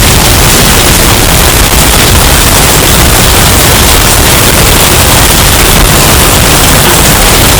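Hurricane storm-wind sound effect, bass boosted and overdriven into a constant, heavily distorted, clipping roar of noise that never lets up.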